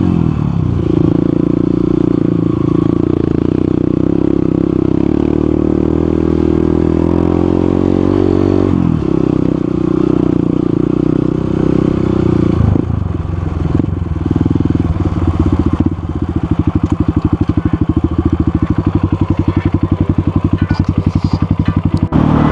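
Motorcycle engine running under way, its note dipping and picking up again twice, then settling into an even, low-speed pulsing in the last several seconds.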